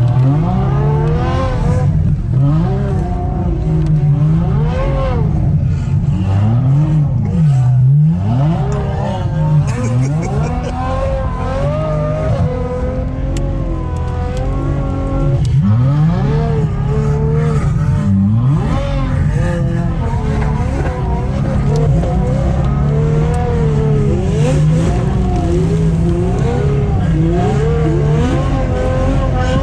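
Ferrari F12's V12 engine driven hard, the revs climbing and dropping again and again as the car accelerates and lifts off.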